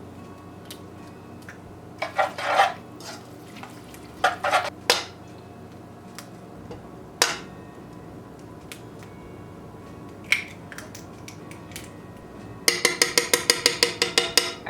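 Kitchen utensils clinking against a mixing bowl while baking ingredients are mixed: a few separate clinks and taps, then near the end a quick run of strikes, about six a second, from stirring in the bowl.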